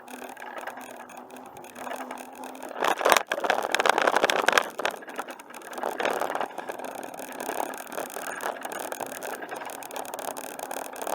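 Bicycle riding along a paved trail: steady tyre and riding noise with the bike rattling over the surface, louder and rattlier for a couple of seconds about three seconds in.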